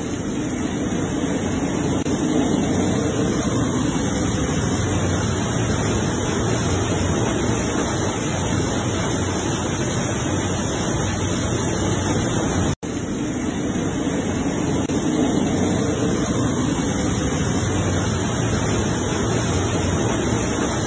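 Heavy rain and rushing floodwater: a steady, even rushing noise, broken by a brief cut-out about 13 seconds in.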